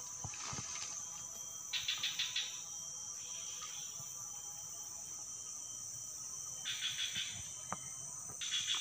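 Forest insects: a steady high-pitched drone, broken by a few short bursts of rapid pulsed chirping, about two seconds in, near seven seconds, and at the end.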